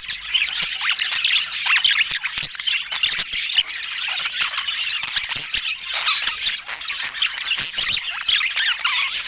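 Budgerigars chattering and chirping without a break, many quick high chirps and squeaks overlapping.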